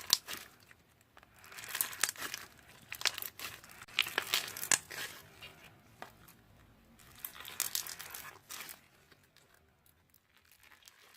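Slime being squished and stretched by hand, giving sticky crackles and pops in several bursts that die away near the end.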